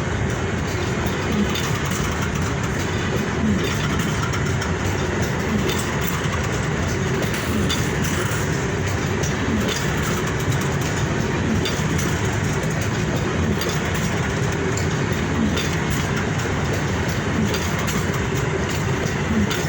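Passenger train cars rolling past at steady speed, a continuous rumble with wheels clicking over rail joints every second or two.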